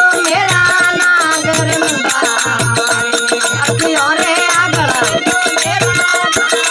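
Rajasthani folk bhajan music: a dholak beats a steady rhythm about once a second while manjira cymbals jingle over a wavering melody line.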